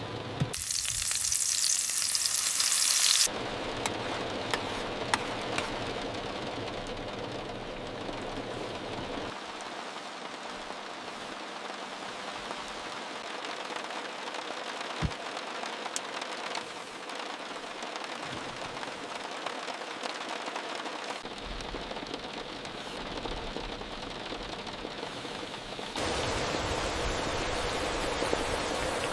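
Heavy rain, a steady hiss with scattered sharp drop ticks. Its character changes abruptly several times: brighter and louder for a few seconds about half a second in, then duller, and brighter again near the end.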